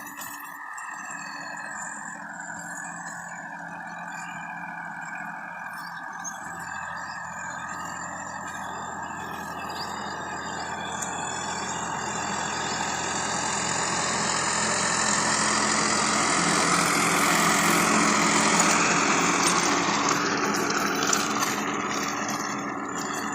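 Tractor diesel engine running steadily, growing louder to a peak about three quarters of the way through, then easing off.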